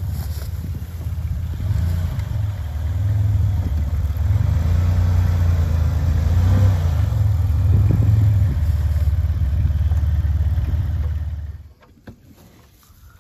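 A Dodge minivan's engine runs, with the revs rising and falling as the van is moved. The sound is loud throughout and cuts off sharply about a second before the end.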